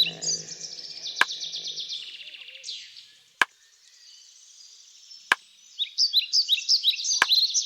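Small caged birds chirping in quick, repeated short notes, dying away in the middle and starting up again near the end. Four sharp single clicks, two of them in the quiet middle stretch.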